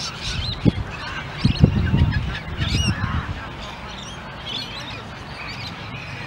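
Birds calling in a busy mix of short squawks and chirps, with low rumbling bumps on the microphone in the first two seconds.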